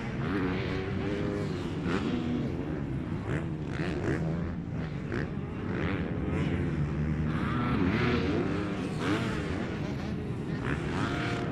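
Several motocross bikes racing on the track, their engines revving up and down continuously and overlapping as riders accelerate and back off.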